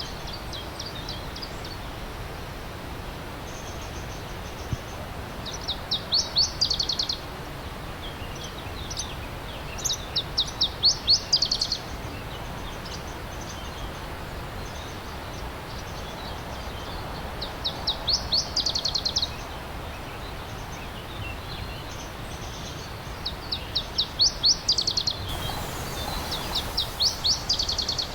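A songbird singing a short, fast trill of repeated descending notes, about five times with pauses of several seconds between phrases, over the steady rushing of a stream.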